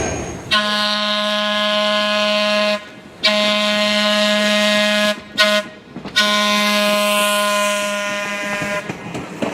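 Train air horn sounding four blasts: long, long, short, long. This is the standard pattern a locomotive sounds as it approaches a level crossing.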